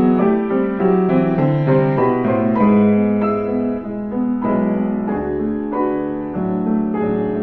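A piano played four hands: a slow passage of held, overlapping chords with a melody above, the notes ringing into one another.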